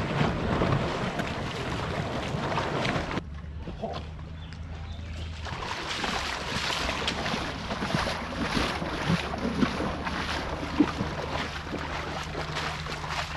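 Wind buffeting the microphone over moving river water, with a sudden break about three seconds in and a low steady hum underneath after it.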